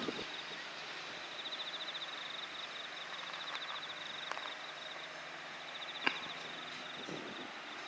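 An insect's high, rapidly pulsing trill, steady throughout, over a faint outdoor hiss, with one short sharp click about six seconds in.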